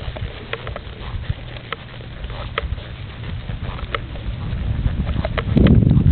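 Irregular light clicks and knocks over a low rumble, with wind buffeting the microphone and growing loud about five and a half seconds in.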